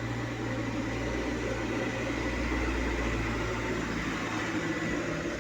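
A steady low machine hum with a hiss of noise over it, unchanging throughout.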